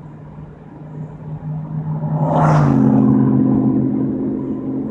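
Car engine accelerating, heard from inside the car: the hum grows louder, a brief rush of noise comes about halfway, then the engine settles to a lower, steady note.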